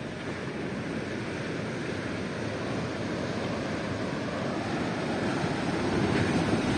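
Sea surf washing in, a steady rush of waves that grows louder toward the end.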